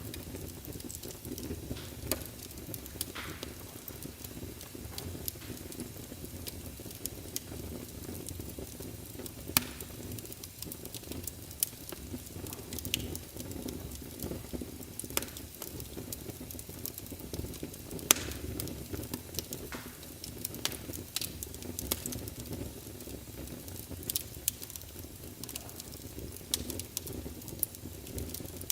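Wood fire burning in a fireplace: a steady low rumble of flames with irregular sharp crackles and pops from the burning logs, a louder pop about 18 seconds in.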